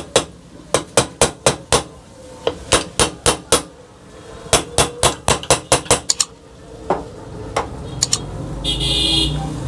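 Light hammer taps seating a ceiling fan's upper cover over its new bearing: quick runs of sharp taps, about four or five a second, in three bursts, then a few single taps.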